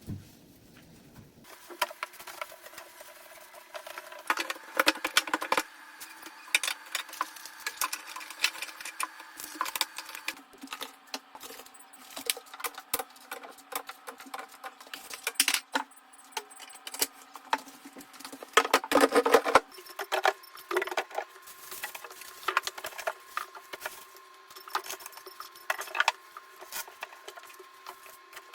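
Quick, irregular clicks, taps and clatter of containers and refrigerator parts being handled, with a louder burst of clattering near the end. A faint steady hum runs underneath.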